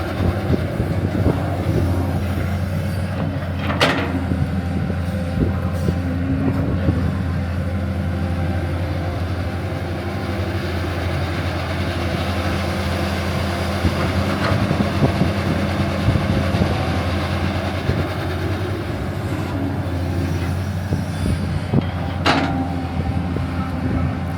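Steady low machine drone with a constant rattle, as of heavy vehicles working, with a sharp click about four seconds in and another near the end.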